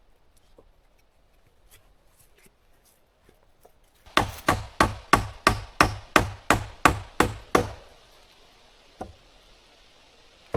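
Hammer driving a nail into wooden boards: a quick run of about eleven even blows, roughly three a second, starting about four seconds in and lasting about three and a half seconds.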